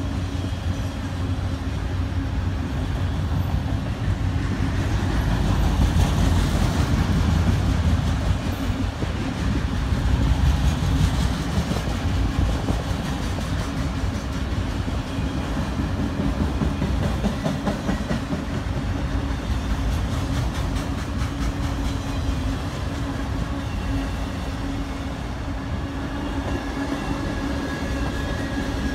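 Freight train's cars, autoracks then tank cars, rolling past close by: a steady rumble of steel wheels on the rails, a little louder about six to eleven seconds in.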